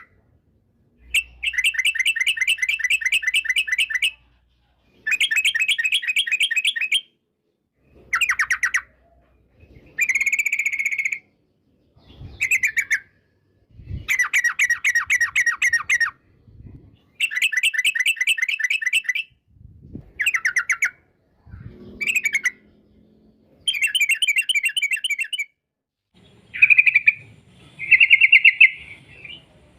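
Yellow-vented bulbul (trucukan) singing its long 'ropel' song: bursts of rapid, evenly repeated notes, each lasting one to two seconds, with short pauses between, over and over.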